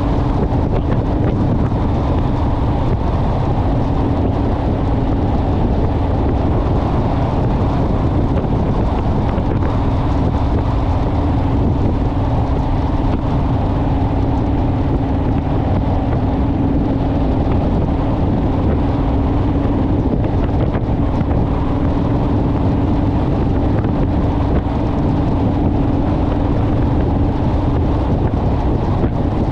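Honda Rebel motorcycle riding at a steady cruising speed: a constant engine hum under heavy wind rushing over the microphone.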